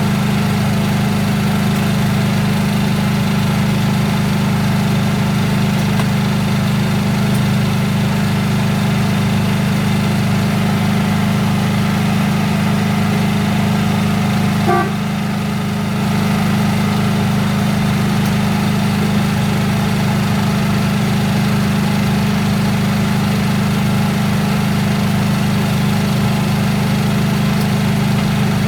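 Speedboat engine running steadily with a constant low hum, briefly dipping in level about halfway through.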